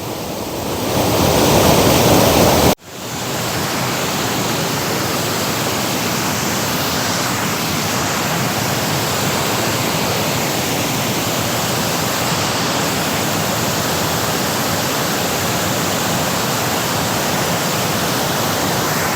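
Waterfall rushing close by, a steady dense roar of falling water. It swells over the first few seconds, cuts out abruptly for an instant about three seconds in, then runs on evenly.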